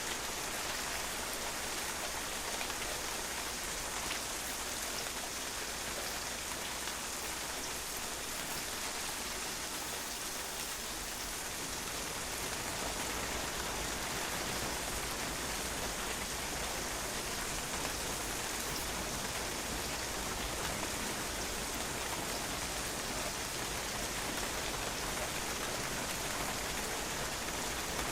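Steady rain falling on a patio, drops pattering on the hard surface in an even, unchanging hiss.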